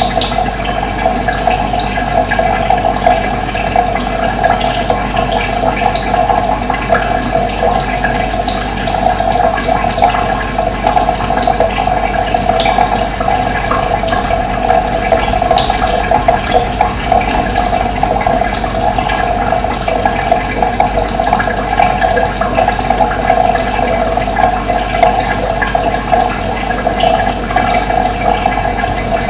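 Running water, a steady rushing flow, with short high bird chirps now and then.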